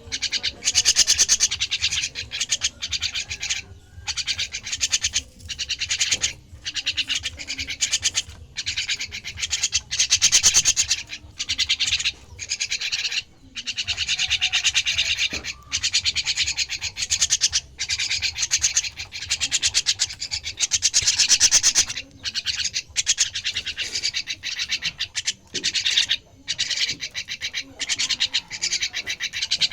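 Starling chick giving harsh, raspy begging calls in repeated bursts of a second or two, with short breaks between.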